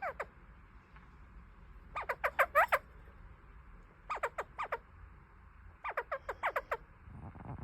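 Kakariki parakeet chattering: three bursts of quick, falling chirps, each a string of short notes, coming about two seconds apart.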